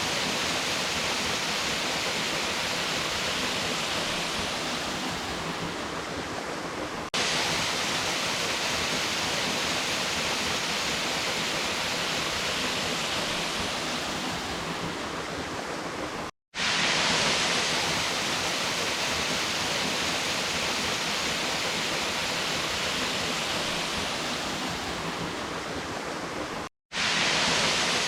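Blackledge Falls waterfall rushing steadily after fresh rain. A sudden jump in the sound about a quarter of the way in and two brief dropouts, about two-thirds through and near the end, mark cuts between shots.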